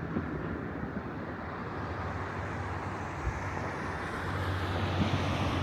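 Steady rumble of city traffic with a low hum that swells about four seconds in, and a few faint, distant thuds.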